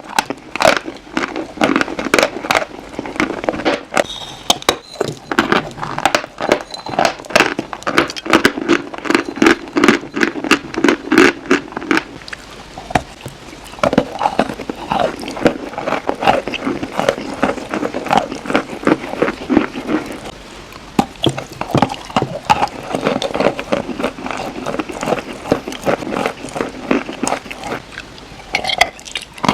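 Chalk crunched close to the microphone: a dense run of sharp, crisp crunches and crackles, several a second.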